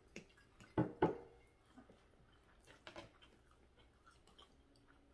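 Quiet close-up eating sounds: chewing, with a few short sharp clicks. The loudest pair of clicks comes about a second in, and a few more come around three seconds in.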